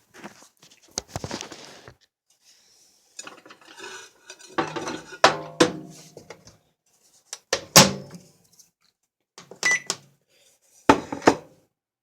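A plate knocking and clinking against the inside of a microwave oven as it is taken out: a handful of separate clatters, some ringing briefly, with pauses between them.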